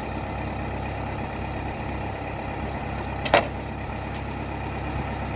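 Valmet 705 tractor's diesel engine running steadily, with a single sharp click or knock about three seconds in.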